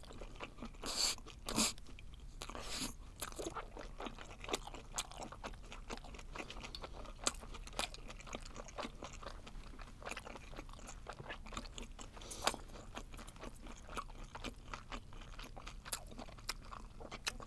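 Close-miked chewing of webfoot octopus: wet, crunchy mouth clicks and squelches, with a few louder bites in the first three seconds and then steady chewing.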